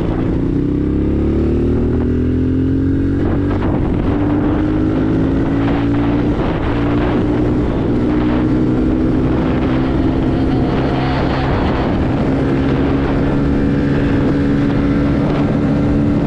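110cc dirt bike engine running under throttle while riding. Its pitch climbs over the first couple of seconds and then holds fairly steady, with scattered knocks and rattles.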